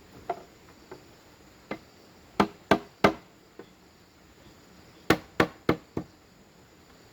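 Sharp strikes of a tool on bamboo: a few lighter hits, then a run of three hard blows and, about two seconds later, a run of four, roughly three a second.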